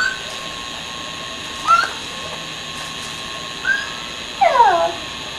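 A cat meowing in short calls, four times, the last one longer and falling in pitch, near the end.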